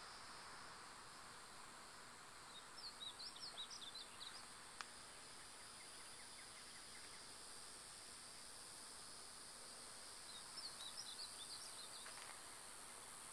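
A small bird sings two short bursts of quick, high chirping notes, several seconds apart. Under them runs a faint, steady, high drone of insects.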